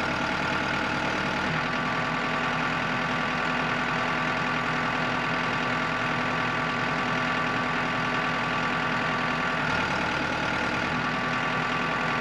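An engine idling steadily, its low rumble changing briefly near the start and again about ten seconds in.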